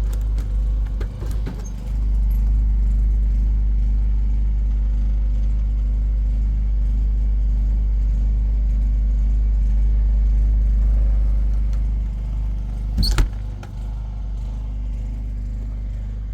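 Generator engine running steadily with a low hum. A few light clatters near the start and one sharp knock about thirteen seconds in.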